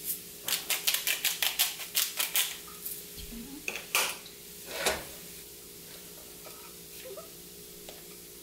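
Spice jar shaken over a frying pan: a quick run of sharp rattling taps, about five a second, for two seconds or so. Then two louder clicks, and after that only a faint sizzle from the pan over a steady hum.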